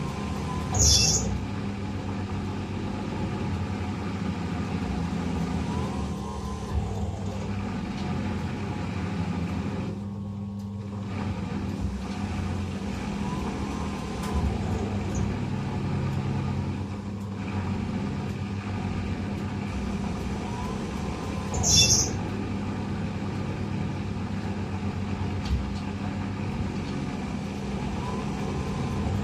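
Eudora 38 Super washing machine running with a steady motor hum, a faint rising note returning every few seconds, and two brief hissing bursts, about a second in and again near 22 s.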